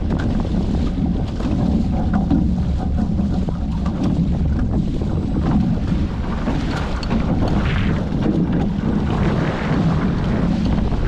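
Wind buffeting the microphone over water rushing and splashing past the hulls of a Hobie 14 catamaran under sail. It is a steady, loud rumble with a few hissing surges of spray.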